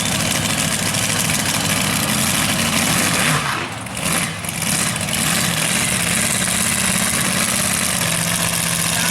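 Mega truck's big-block Chevrolet V8 running loud, dipping briefly about three and a half seconds in, then holding a steady drone.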